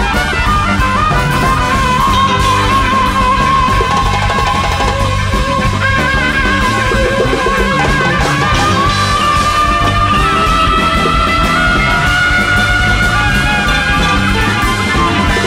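Large free-jazz-based big band with saxophones, trumpet, violin, electric guitar, keyboards, bass and two drum kits playing live over full drums and bass. Long held melody notes waver over the rhythm, and the line steps up in pitch about nine seconds in.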